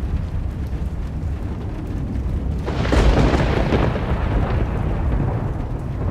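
Thunder during a thunderstorm: a continuous low rumble, with a louder peal about three seconds in that rolls away over a couple of seconds.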